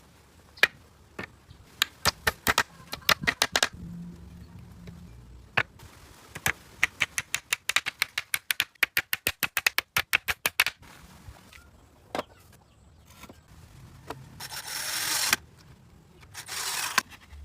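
Woodworking on pallet boards: a string of sharp knocks and taps, with a fast run of about five a second in the middle. Near the end come two short rasping bursts.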